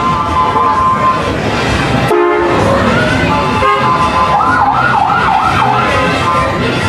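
Siren wailing with a fast up-and-down yelp about two thirds of the way in, over a loud, steady background of street noise.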